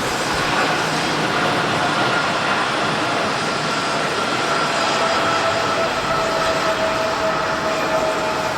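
Jet airliner's engines passing close by: a loud, steady rushing noise with whining tones that slowly fall in pitch.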